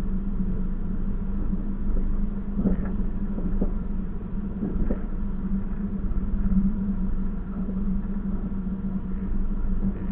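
Train running along the track, heard on board: a steady low rumble and hum, with a few short knocks and clatters about three to five seconds in.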